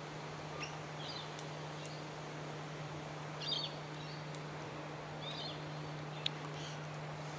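Wild birds giving short, faint chirps now and then, a few scattered calls over several seconds, against a steady low hum.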